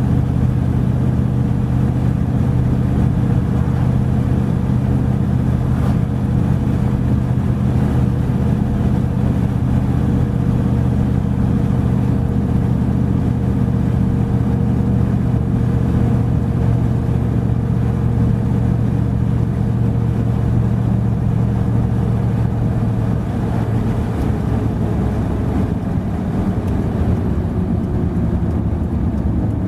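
Truck engine running steadily under way, its pitch sliding lower near the end as it eases off.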